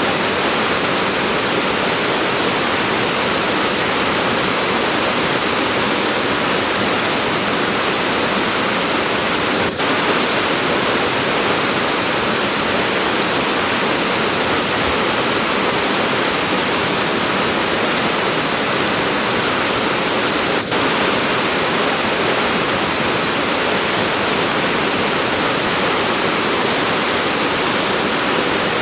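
Heavy rain falling steadily, a dense, even hiss that briefly dips for an instant twice, about a third and two-thirds of the way through.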